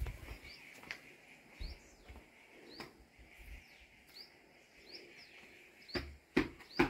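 Birds calling in short chirps, repeated every half second or so, over a faint steady high hum, with a few soft knocks near the end.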